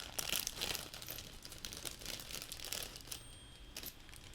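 Crinkling and rustling of a small plastic parts bag being handled, mostly in the first three seconds and then dying down to faint handling sounds.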